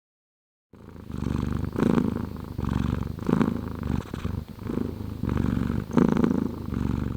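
Cat purring in a low, steady rumble that swells and eases in regular pulses, about one and a half a second. It starts under a second in, after a brief silence.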